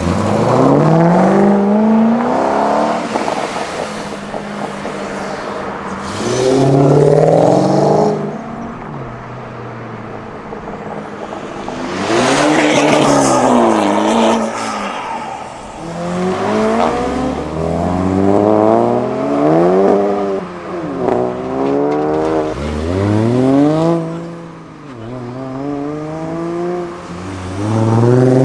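A string of tuned cars accelerating hard past, one after another, each engine note climbing, dropping at a gear change and climbing again. About twelve seconds in, one pass is louder and rougher, with a harsh exhaust blare.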